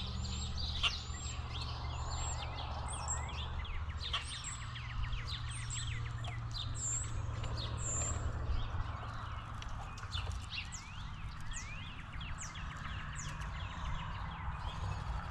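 Many wild birds chirping and calling at once, short high chirps and quick sliding whistles overlapping throughout, over a steady low hum.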